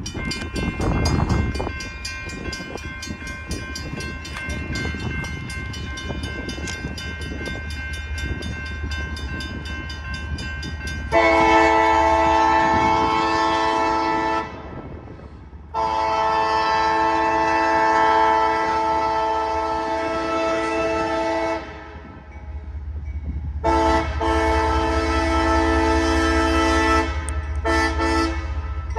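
Freight diesel locomotive sounding its multi-chime air horn in the grade-crossing pattern: a long blast, a longer one, another long one, two short toots, then a long blast. Before the horn, a fast high ringing goes on for about ten seconds over the steady low rumble of the passing locomotive.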